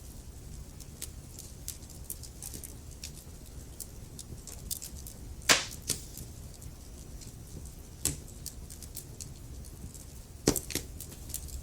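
Logs burning in a fireplace, crackling: a scatter of small sharp crackles over a low steady rumble, with three louder pops, about halfway, about two-thirds in and near the end.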